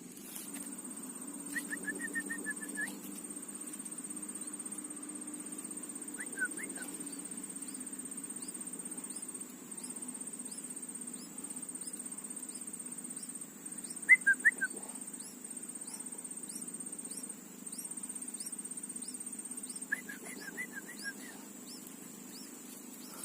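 Four short bursts of quick, high chirps from a small bird, loudest about halfway through, over the steady high drone of an insect.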